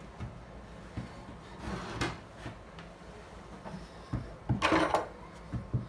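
Hand-working a micarta knife handle at the bench: scattered light knocks of the work and tools being handled, a soft scraping stroke about two seconds in and a louder scraping stroke about three-quarters of the way through.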